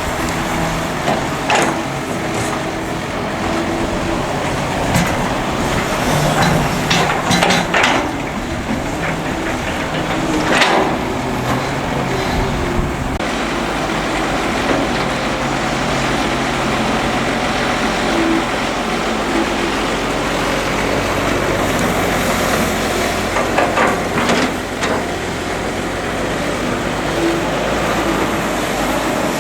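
Hydraulic excavator's diesel engine running steadily, with occasional sharp metallic clanks and scrapes of the machine at work.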